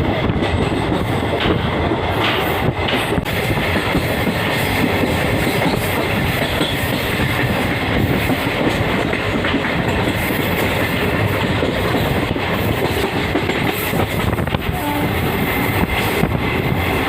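Passenger train running along the line: a steady rumble of wheels on the rails with occasional clicks.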